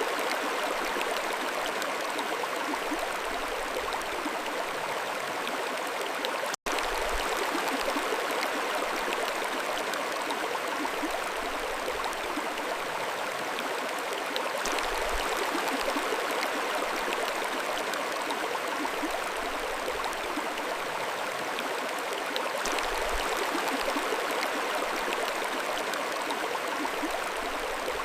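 Mountain stream flowing, a steady rush and babble of water, with a split-second dropout about six seconds in.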